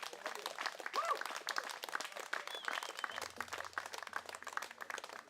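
A small audience clapping and applauding, with a short cheer about a second in.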